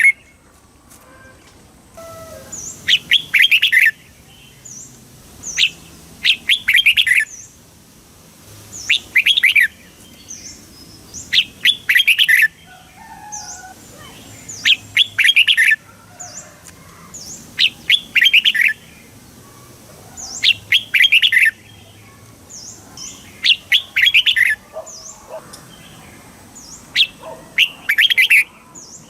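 Red-whiskered bulbul singing: short rapid phrases of clear whistled notes, repeated about every three seconds, with faint short high chirps between them.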